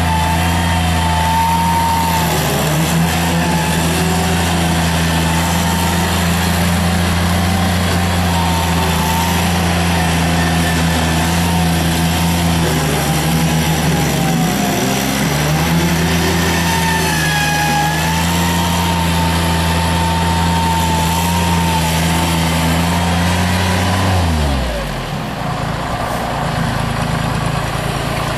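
Mini skid steer loader's engine running at high throttle while driving a hydraulic brush cutter: a steady drone with a wavering whine above it. About 24 seconds in the engine note drops sharply, then climbs again near the end.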